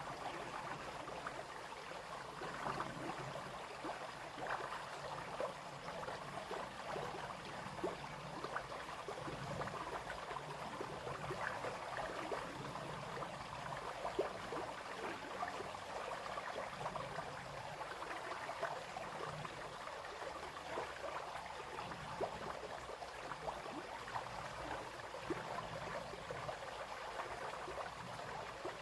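Small brook flowing and splashing over stones, a steady babble with many small splashes and gurgles.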